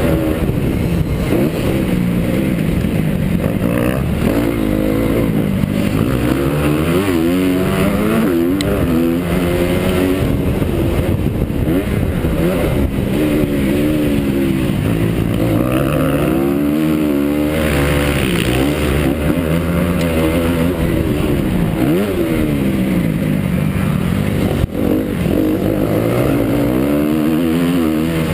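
Honda CRF250 single-cylinder four-stroke motocross bike's engine on the throttle, revving up and down again and again as it accelerates and backs off, close to the microphone.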